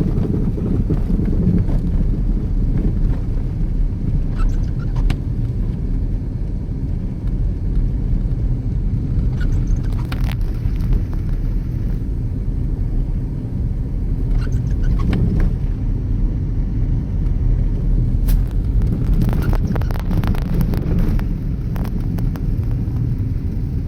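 Steady low rumble of a car driving along a road, with a few brief sharp noises scattered through it.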